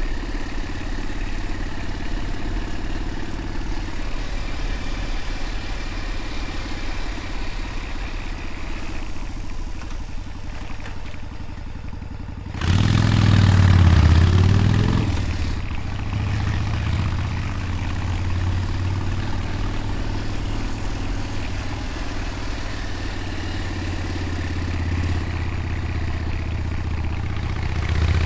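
Motorcycle engine running steadily under way. About halfway through it revs up loudly for a couple of seconds, its pitch climbing and then falling back, before it settles to a steady run again.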